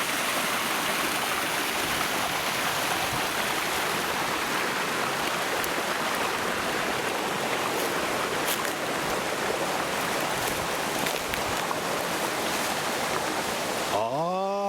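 Forest stream running over rocks: a steady rush of water. Near the end a pitched tone with overtones starts rising in pitch.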